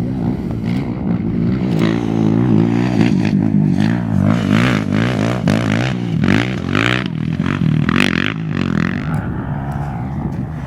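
Off-road race engine revving hard, its pitch climbing and dropping repeatedly as the throttle opens and closes, with short gusts of noise in the middle of the stretch.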